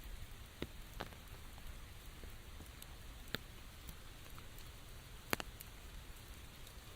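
Steady rain, with a few large drops landing close by as single sharp taps; the loudest comes about five seconds in.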